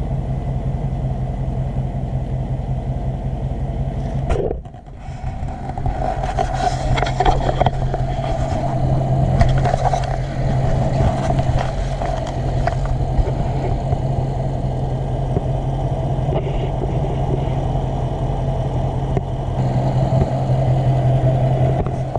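Dodge Charger Scat Pack's 6.4-litre 392 HEMI V8 idling steadily with the hood open, with a brief drop-out about four and a half seconds in.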